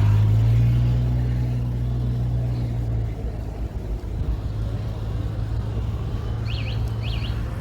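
A motor vehicle engine running with a steady low hum, loudest for the first three seconds and then lower. Two short high chirps sound close together near the end.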